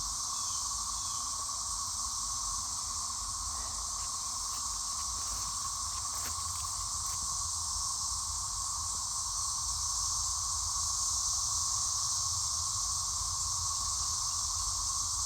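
A dense chorus of periodical cicadas singing all at once: a steady, unbroken drone with a lower hum and a higher hiss.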